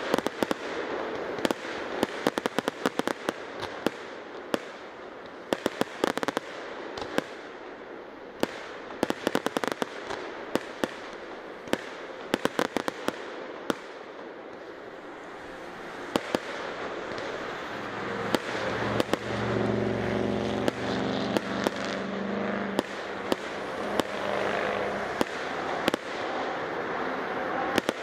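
Fireworks display: quick clusters of crackling pops from bursting shells over a steady background haze of noise. For a few seconds past the middle a low, steady drone comes in under the bursts.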